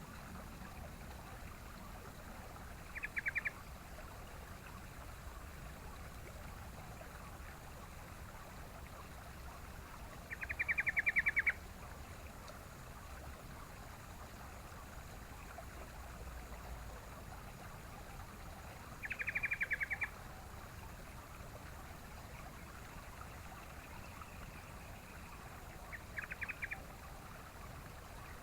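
Sooty-headed bulbul (trucukan) calling in four short bursts of quick, rapidly repeated notes, spaced several seconds apart, over a steady background hiss.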